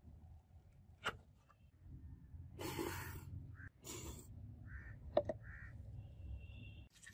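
Several short, harsh bird calls, like crows cawing, come through in the middle of the stretch, mixed with a couple of sharp clicks.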